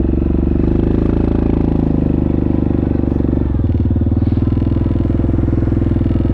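Yamaha Grizzly 700 ATV's single-cylinder four-stroke engine running close to the microphone, its note smoothing out as the revs rise shortly after the start and dropping back to a slower, pulsing beat about three and a half seconds in.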